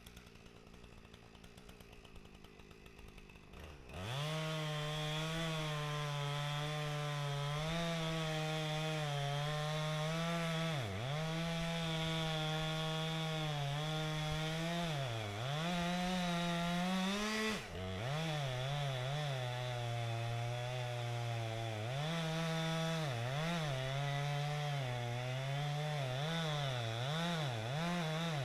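Husqvarna 455 Rancher two-stroke chainsaw starts up about four seconds in and runs at high revs while cutting into a large oak trunk. Its pitch dips again and again as the chain bogs under load, and more often toward the end.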